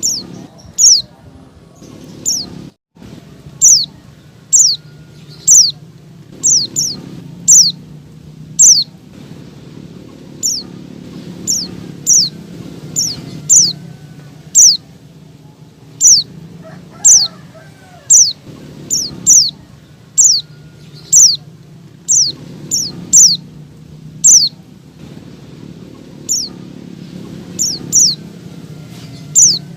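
Female white-eye (pleci) giving its call to a male: short, sharp, high-pitched notes that fall steeply in pitch, repeating about once a second and sometimes in quick pairs, over a faint low hum.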